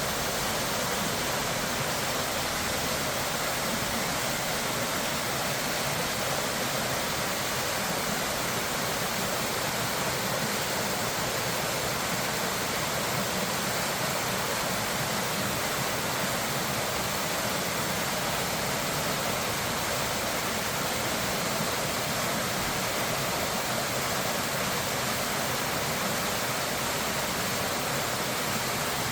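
Steady rushing of a waterfall or flood torrent, an even hiss-like roar of falling water that holds constant throughout.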